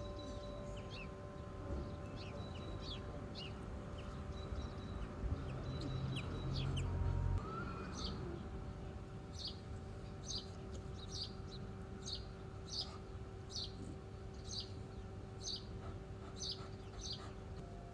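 A small bird chirping over and over, short high notes about once a second, more regular in the second half. A low rumble swells midway.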